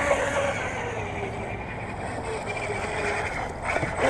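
DJI Mavic Mini quadcopter's propellers whining in flight, a faint hum at a few pitches that shift slightly and fade, over a steady background hiss.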